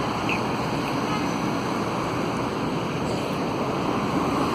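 Steady rushing noise of city street traffic, vehicles going by.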